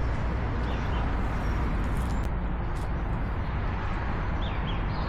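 Steady road and engine rumble of a car driving along, with a few faint short high chirps.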